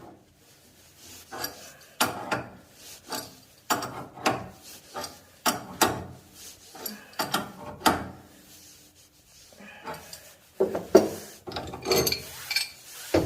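Hand wrench working the threaded fittings of a newly fitted ball valve on heating pipework: irregular runs of short metallic scrapes and clicks, busier near the end.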